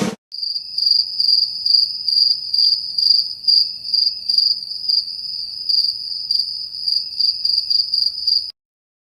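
Crickets chirping: a high, narrow trill pulsing a little over twice a second, the stock 'awkward silence' crickets sound effect. It cuts off about a second before a whoosh begins.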